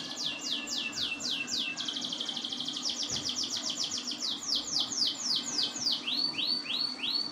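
Domestic canary singing: a run of repeated falling sweeps, slow at first, quickening into a fast trill about three seconds in, then slowing and ending with a few lower sweeps that cut off suddenly.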